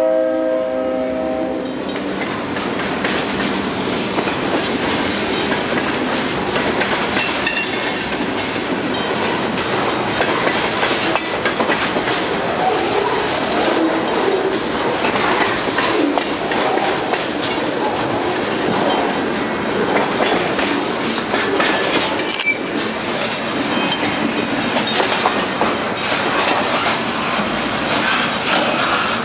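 Freight train cars rolling past close by: steel wheels clattering over the rail joints with occasional squeals. A diesel locomotive's horn cuts off about a second and a half in.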